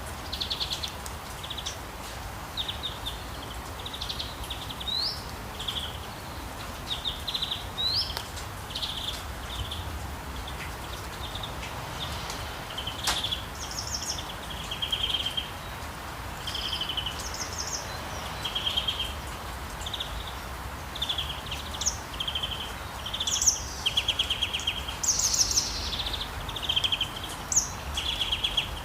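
Several songbirds calling in many short, high trills and chirps, busiest in the second half, over a steady hiss of light rain. There is one sharp click about halfway through.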